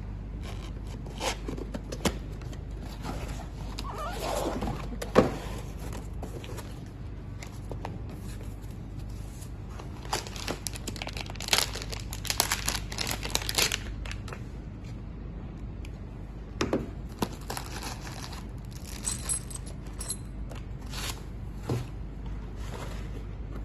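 Packaging being handled during an unboxing: crinkling and tearing of wrapping, with scattered knocks and clicks, busiest about halfway through, over a steady low hum.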